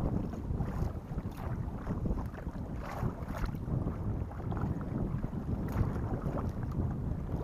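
Wind rumbling on the microphone over water, with a few short splashes of kayak paddle strokes.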